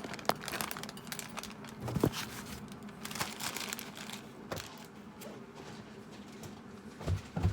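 Handling noise: a few sharp knocks and some rustling as things are moved about, with a cluster of soft low thumps near the end.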